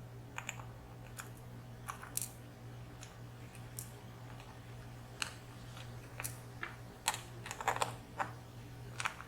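Small, irregular clicks and taps of tweezers and tiny pins from a disassembled VSR dimple lock being handled and examined, over a steady low hum.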